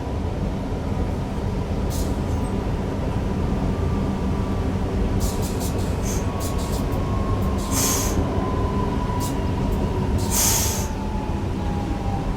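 Newag Impuls EN63 electric multiple unit heard from the driver's cab: a steady rumble of wheels and running gear under a faint electric whine that slowly falls in pitch. A few sharp clicks and two short hisses come about 8 and 10.5 seconds in.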